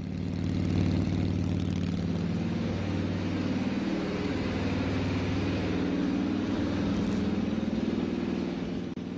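Harley-Davidson Shovelhead V-twin engine running steadily, held at about 2200 rpm with the headlight on for a charging-system voltage check.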